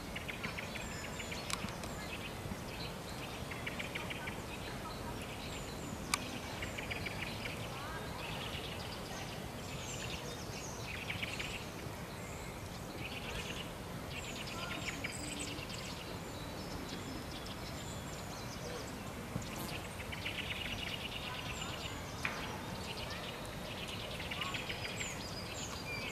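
Songbirds chirping and calling, with short high notes and buzzy trills that come again every second or two, over a steady background hiss. A few sharp clicks stand out.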